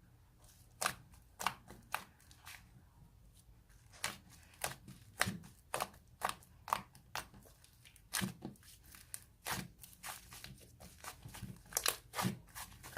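White fluffy slime being pressed and squished by hand, making irregular sharp pops and crunchy crackles, sparse at first and coming more often after about four seconds.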